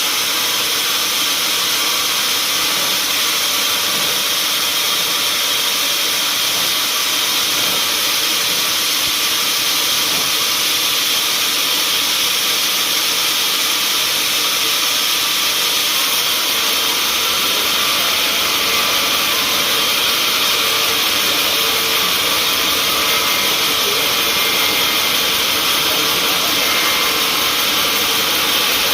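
Sawmill machinery running steadily, an even, unbroken noise weighted toward the high end with no distinct strokes or pauses.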